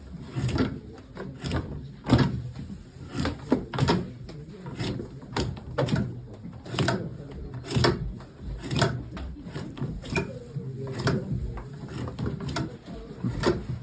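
Irregular knocking and clattering, one or two sharp knocks a second, over a low rumble.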